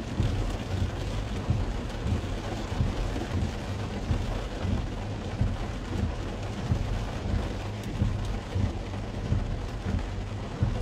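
Rain pattering on a car's roof and windshield, heard from inside the cabin: quick, irregular drop hits over a low, steady rumble.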